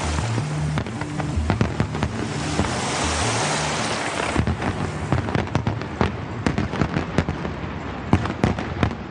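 Fireworks going off: a dense crackling hiss for the first few seconds, then a rapid run of sharp bangs and pops. Music plays underneath at the start.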